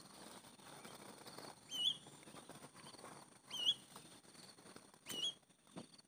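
Three short, high squeaky bird calls, each sweeping quickly upward, about one every one and a half seconds, over the patter of footsteps on dry ground.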